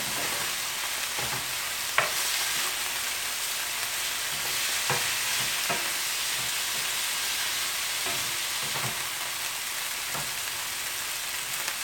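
Chicken pieces frying with a steady, high sizzle in a hot nonstick skillet, while a wooden spatula stirs them and scrapes or taps against the pan now and then.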